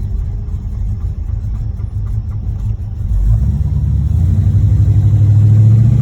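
The 355 small-block V8 of a 1986 Chevrolet Monte Carlo SS running while driving, heard from inside the car. About halfway through it pulls harder and its pitch rises steadily as the car accelerates. The engine has a knocking connecting rod.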